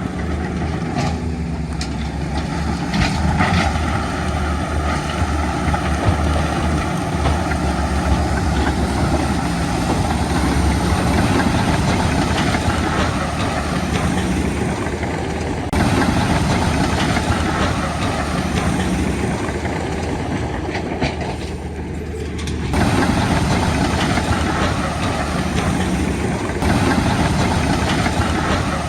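Heavy diesel earthmoving machinery running steadily with a deep engine rumble; the sound shifts suddenly a few times.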